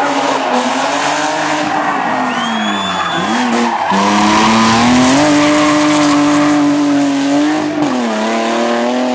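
BMW 3 Series drift car at high revs with its rear tyres skidding. The engine note sags about three seconds in, climbs back a second later and holds, then drops again near the end, over steady tyre hiss with a short high tyre squeal.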